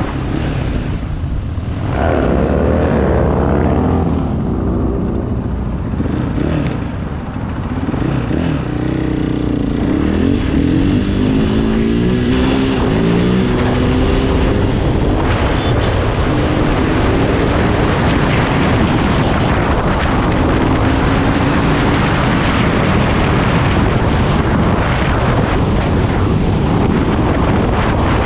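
KTM 500 EXC's single-cylinder four-stroke engine running under way, its pitch rising and falling several times over the first half as the throttle and gears change, then holding steadier. A steady rush of noise runs underneath.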